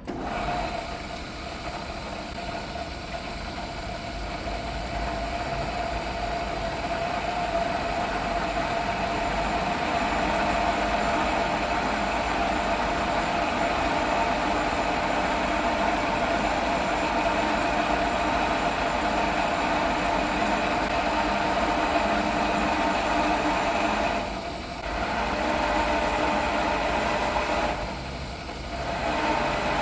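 Milling machine drilling the 8.5 mm grease-port hole into a thick high-tensile steel eye: a steady machining noise with a humming tone. The cutting sound eases off briefly twice near the end.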